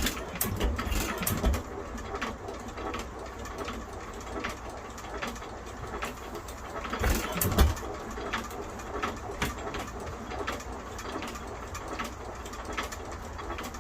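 IHC Titan 2½ hp hit-and-miss engine being started: a run of clicks and pops as it turns over and fires, with the loudest firing pops about halfway through.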